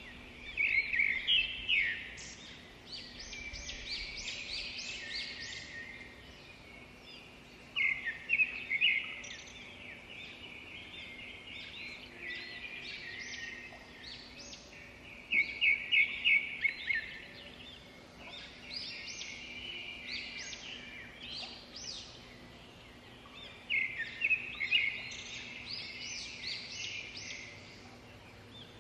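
A songbird singing, repeating a loud phrase of rapid high notes about every seven to eight seconds, with softer twittering between, over steady outdoor background noise.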